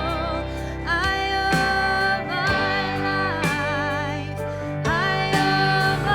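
A song playing: a voice holds long notes with vibrato, moving to a new pitch every second or two, over a steady instrumental accompaniment.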